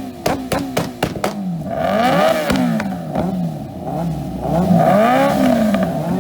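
Motorcycle engine revved hard against its rev limiter, with a rapid crackle of pops for about the first second. After that the revs rise and fall again and again in long blips.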